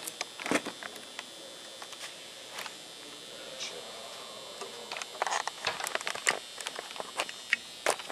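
Handling noise of a longboard being worked on: irregular light clicks and knocks, a few around half a second in and a busier cluster about five to six seconds in.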